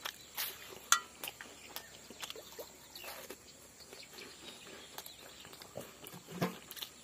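Close-up crunching and chewing of a crisp square biscuit: a sharp bite crunch about a second in, then scattered smaller crunches and mouth clicks as it is chewed.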